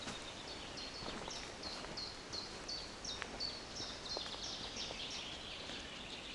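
A songbird singing a long run of high repeated notes, about three a second, stopping about five seconds in, over steady forest ambience.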